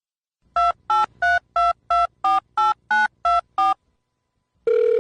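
Touch-tone phone keypad dialing ten digits in quick, even succession, each beep a pair of tones. A steady ringing tone starts near the end.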